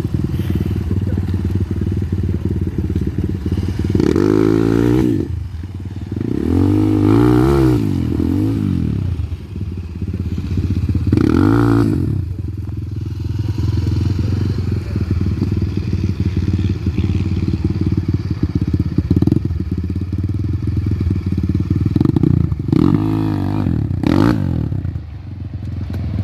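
Gas Gas EC200 two-stroke enduro motorcycle engine running under way, its revs rising and falling in several bursts, the longest about 7 seconds in and again near the end.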